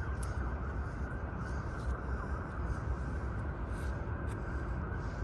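Outdoor city ambience while walking: a steady, uneven low rumble with a general hiss of the surroundings, and faint scattered ticks.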